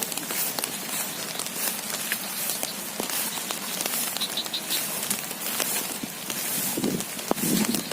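Heavy rain pattering steadily, with many small crackling taps.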